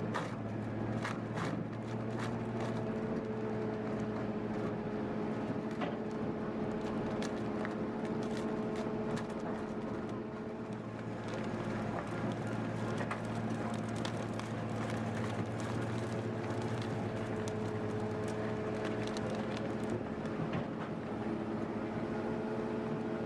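Green-waste wood chipper running steadily under load, its engine drone overlaid by scattered sharp cracks and snaps of branches being chipped.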